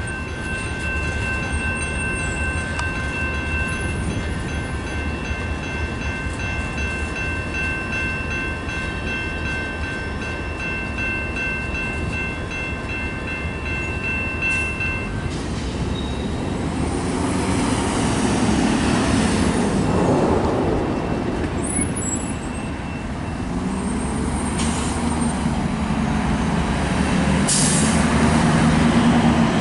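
The last cars of a slow freight train rolling along the rails, with steady high-pitched ringing that stops about halfway through. Road vehicles then pass close by, the loudest sound, swelling twice.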